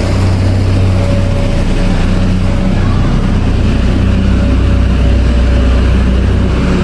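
Road-construction machinery engines running with a steady low drone.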